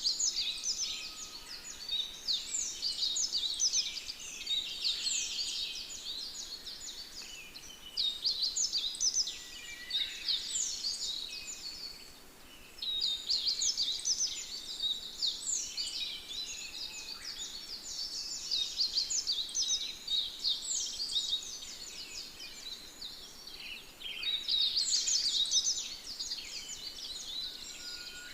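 Songbirds singing: rapid twittering chirps in busy phrases of a few seconds, broken by short pauses.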